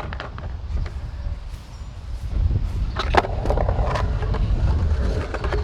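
Skateboard wheels rolling on concrete, with a low rumble that grows louder in the second half and a sharp click about three seconds in.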